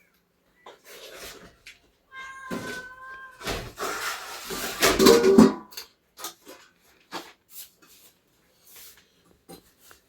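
An animal calling: a drawn-out cry about two seconds in, followed by a louder, harsher cry that lasts about two seconds, then faint scattered clicks.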